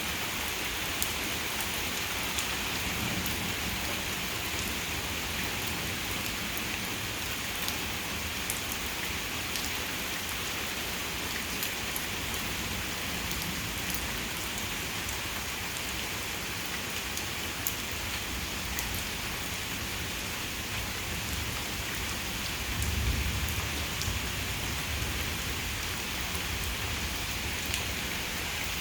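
Heavy rain falling steadily, with scattered ticks of drops striking nearby. About three-quarters of the way in comes a brief low rumble of thunder.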